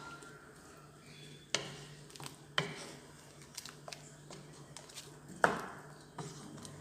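A metal spoon knocking and scraping against a cooking pot while stirring a simmering curry: a few sharp knocks, the loudest about five seconds in, over a low steady hum.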